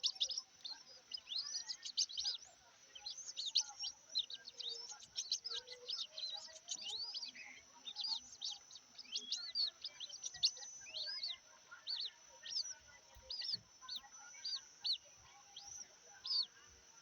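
White-breasted waterhen hatchlings peeping: short, high, arched cheeps coming several a second without a break.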